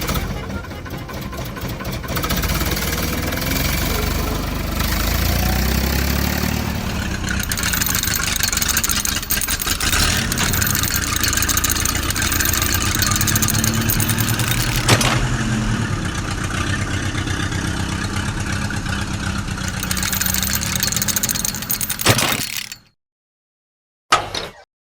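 Engine running and revving unevenly, which cuts off suddenly near the end, followed by one brief burst of sound.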